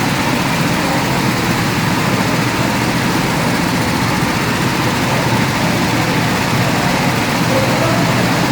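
A vehicle engine idling steadily, with no revving or sudden changes.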